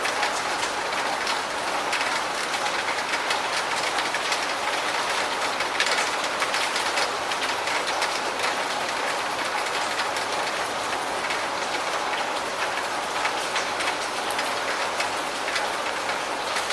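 Steady rain falling: an even wash of many small drop impacts.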